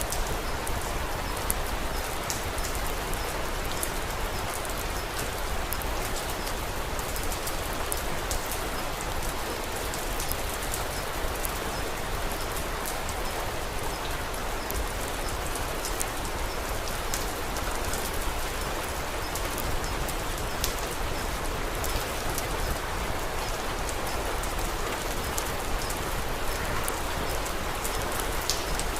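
Steady rain falling, dense and even, with scattered light ticks of drops and a low steady rumble underneath.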